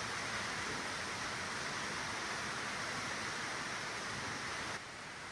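Steady hiss of compressed air blowing out tractor service parts, cutting off abruptly near the end.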